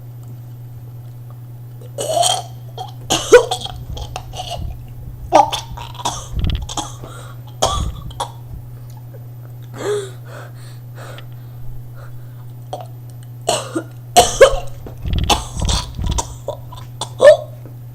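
A person coughing and clearing the throat in repeated short, irregular fits, with a few low thumps among them.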